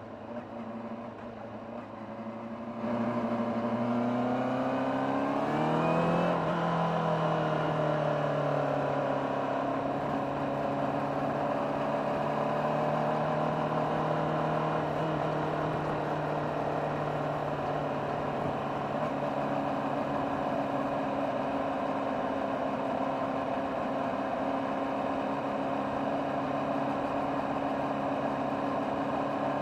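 Honda CBR600RR inline-four with its factory exhaust, running quietly at first and then opening up about three seconds in, revs climbing for a few seconds before settling into a steady cruise with the pitch slowly easing.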